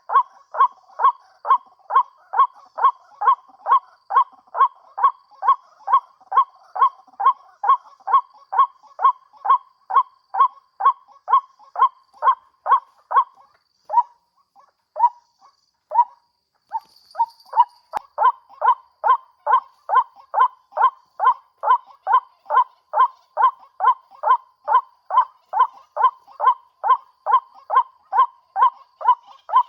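White-breasted waterhen calls, a short croaking note repeated over and over at a little over two a second, broken by a pause of a few seconds midway before resuming.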